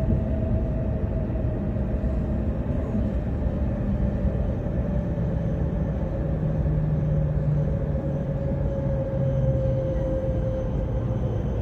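E5 series Shinkansen running, heard on board: a steady low rumble with a whine that slowly drops in pitch.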